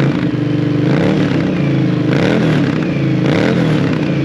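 CFMoto ZForce 800's V-twin running through an RJWC Mud Edition aftermarket exhaust, revved in several short throttle blips about a second apart, the pitch rising and falling back to idle each time.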